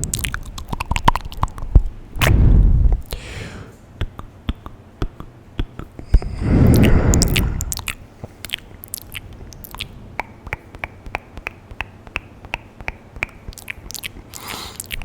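Close-miked ASMR mouth sounds at very high microphone sensitivity: many small wet clicks and smacks of lips and tongue, with two louder rushing sounds about two and seven seconds in.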